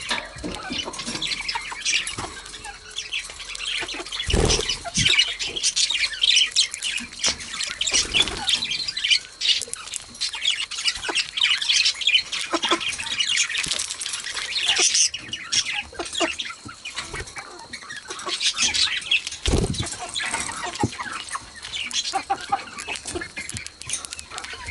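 Female budgerigars chattering, with rapid high chirps and squawks. Two dull thumps sound out above the chatter, about four seconds in and again near twenty seconds.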